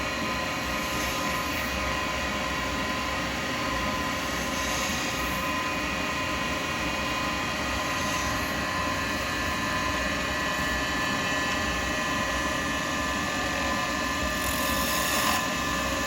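Wood lathe running steadily with its motor whine, while a turning tool cuts beads into a spinning acrylic pen blank in a few short scraping passes, the longest near the end.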